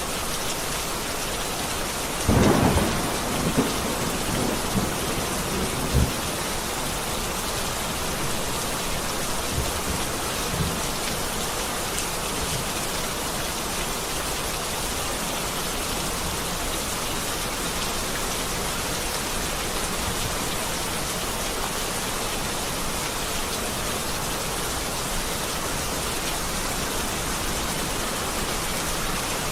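Heavy rain falling steadily. A loud clap of thunder comes about two seconds in, followed by a few weaker peals over the next few seconds and a faint one near ten seconds.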